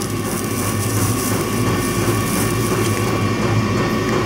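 A steady mechanical hum with an even hiss and a faint thin tone above it, unchanging throughout: background machinery running.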